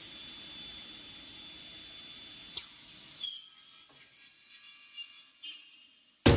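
A high-pitched steady electronic tone over a faint hiss, changing pitch about three seconds in and fading away near the end, just before loud music cuts in.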